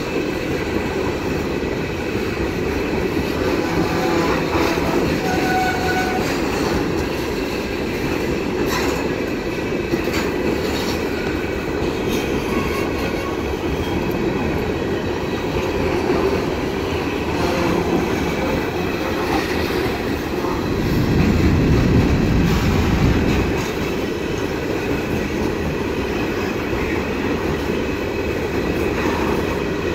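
Railcars of an Arkansas & Missouri train rolling steadily past: a continuous rumble with wheels clacking over rail joints and a few faint, brief wheel squeals. The low rumble swells louder about 21 seconds in.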